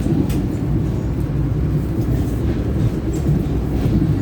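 Passenger train running, heard from inside the carriage as a steady low rumble with a few faint clicks.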